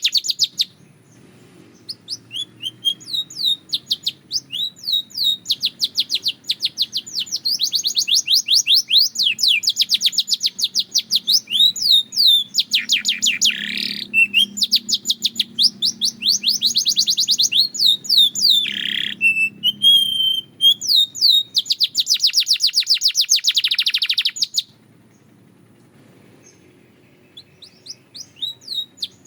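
Belgian canary singing in long runs of rapid, evenly repeated trilled notes, broken by a few harsher buzzy phrases midway. The song pauses briefly just after the start and for a few seconds near the end, then starts again.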